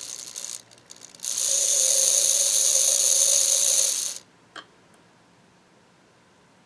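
The small open-frame electric motor of an AC Gilbert model locomotive running on test power: a steady whir for about three seconds that starts about a second in and cuts off suddenly, followed by a single click.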